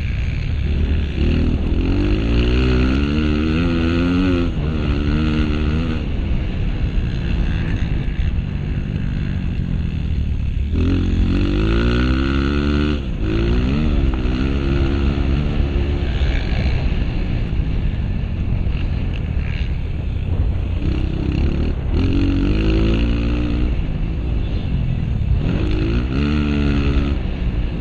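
Honda CRF230's single-cylinder four-stroke engine heard on board while racing motocross, revving up and dropping back again and again as the rider accelerates and shifts, over a steady low rumble.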